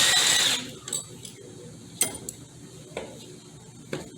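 A brief burst of a power tool ends about half a second in. It is followed by four sharp metallic clinks, about one a second, as tools and parts knock against the metal of an automatic transmission being taken apart.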